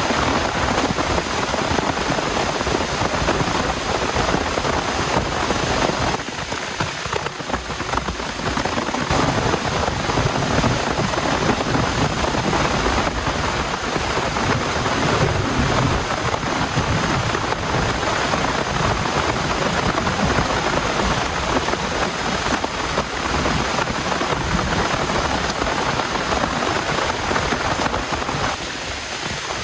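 Heavy rain falling in a steady dense downpour, easing briefly about six seconds in and again near the end.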